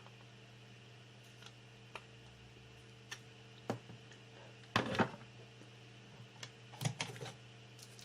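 Scattered light clicks and taps of soldering tools on a monitor's circuit board, the loudest cluster about five seconds in, over a steady low electrical hum.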